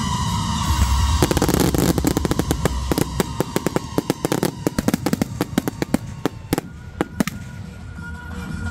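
Fireworks crackling and popping in a rapid, dense string of small reports, thinning out to a few scattered bangs after about seven seconds.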